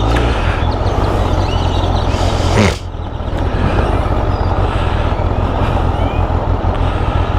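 Motorcycle engine and wind noise while riding, with a brief rise in pitch and loudness about two and a half seconds in that cuts off sharply, followed by the engine running lower and quieter.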